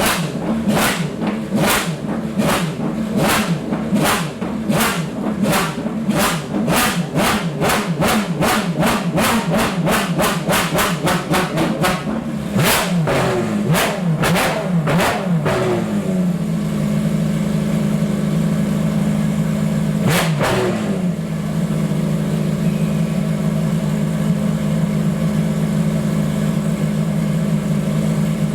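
Ferrari FXX-K Evo's V12 engine: a run of sharp, evenly spaced bangs that quicken over the first fifteen seconds or so, then a steady low running, with one short blip of the throttle partway through.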